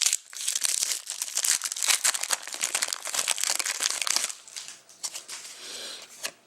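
A hockey card pack's wrapper being torn open and crinkled by hand, a dense crackling for about four seconds that then thins to fainter rustling.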